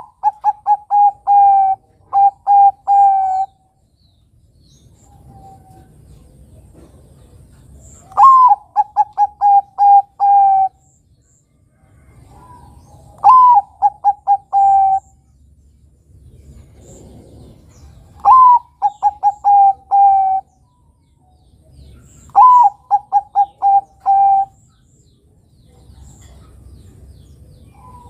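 Zebra dove (Bangkok-type perkutut) cooing: five calls, each opening with a rising-then-falling note followed by a quick run of short, even coos, repeated every four to five seconds.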